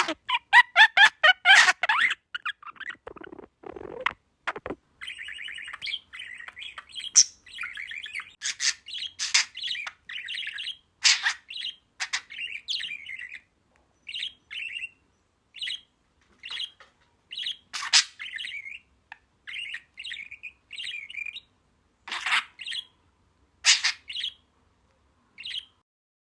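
A small pet bird chirping and twittering in short, separate bursts. It opens with a warbled stretch, and a few louder, sharper calls are scattered through.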